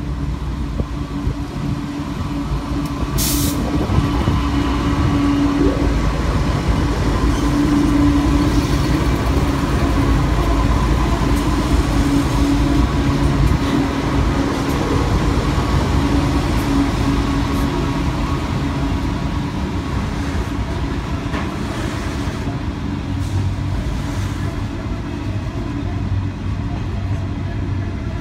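Pacific National NR-class diesel-electric locomotives (GE Cv40-9i) passing close by, a loud engine drone with a steady held tone that builds over the first few seconds, followed by container wagons rumbling past on the rails.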